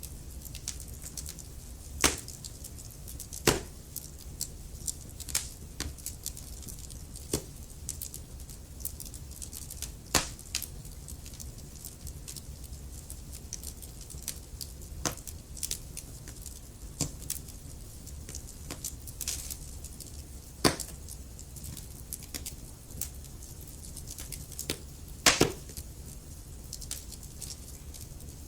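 Wood fire crackling: irregular sharp pops and snaps over a steady low rumble and hiss, with a few louder pops scattered through it.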